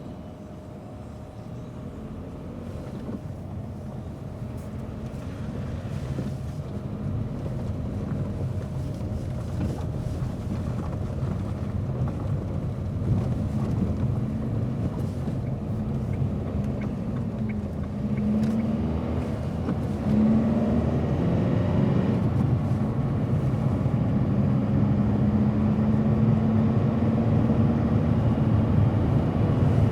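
Car driving, its engine and road noise growing steadily louder as it gathers speed, with the engine hum rising in pitch a few times past the middle.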